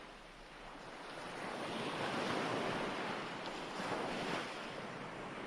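Ocean waves washing in on a background recording, a steady surf hiss that swells about two seconds in and again near four seconds.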